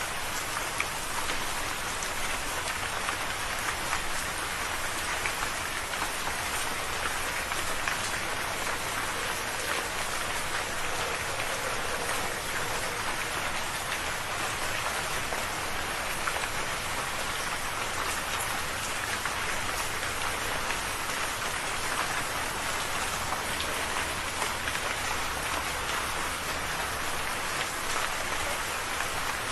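Steady rain falling, a dense even patter of drops with many small individual drop ticks.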